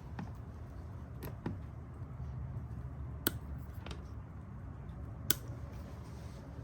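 A handful of sharp, separate clicks and taps from hand tools and small parts being handled during wiring work, the two loudest a few seconds in and near the end, over a steady low hum.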